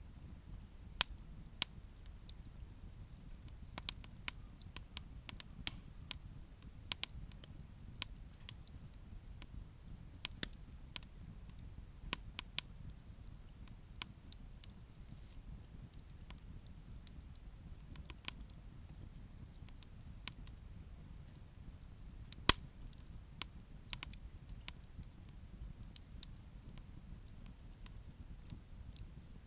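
Wood campfire crackling: irregular sharp pops and snaps, one much louder pop about two-thirds of the way through, over a low steady rumble.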